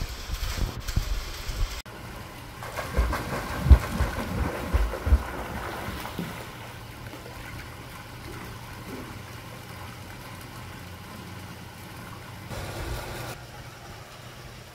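Wind buffeting the microphone in gusts over a steady low engine hum, heaviest in the first few seconds.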